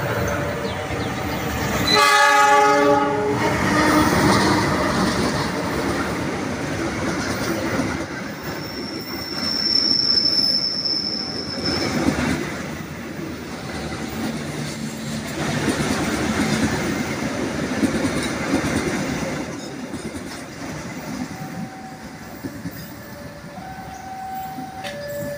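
Diesel locomotive's horn sounding one loud blast about two seconds in. Then the passenger train runs close past, its wheels clacking over the rail joints, with a thin high wheel squeal in the middle. The rumble fades near the end as the last coach moves away.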